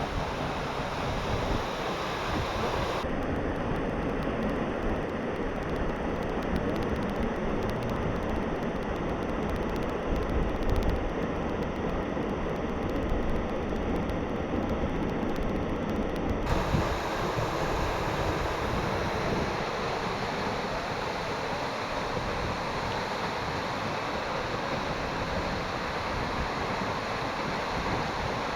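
Steady rushing noise of wind and water, changing abruptly about 3 and 16 seconds in.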